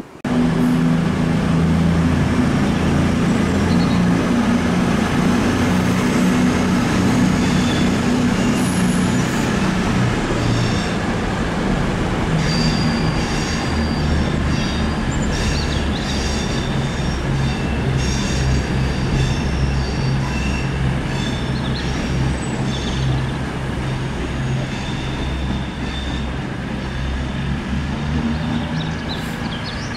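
Train running through a station: a loud, steady low drone from the locomotive that drops in pitch partway through, with scattered high-pitched squeals from the wheels on the rails.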